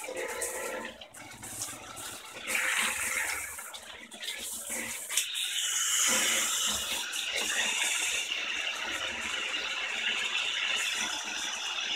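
Tap water running as the vacuum cleaner's sponge filters are washed, uneven at first and then steadier and louder from about five seconds in, with a single knock around then.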